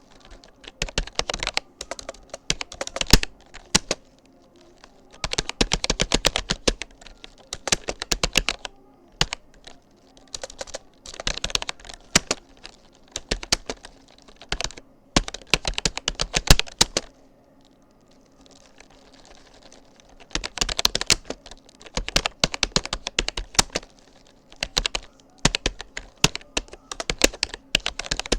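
Rapoo computer keyboard being typed on: quick runs of key clicks in bursts of several seconds, broken by brief pauses, one of them about two to three seconds long near the middle.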